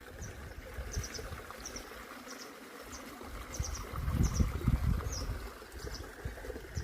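Outdoor rural ambience: a bird repeating short, high double and triple chirps about every two-thirds of a second over a steady hiss, with low wind rumble on the microphone, strongest in the middle.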